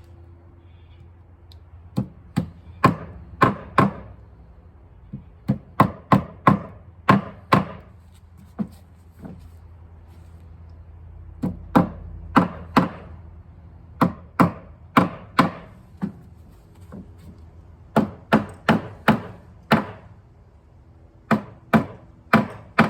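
Plastic hammer tapping Cortex plugs into the screw holes of a Trex Enhance composite deck board: short runs of sharp taps, a handful in each run, with pauses between the runs as each plug is set.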